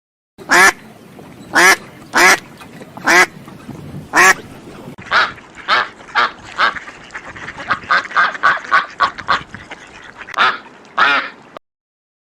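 Ducks quacking: several loud, separate quacks, then a quicker run of shorter quacks, and two more near the end.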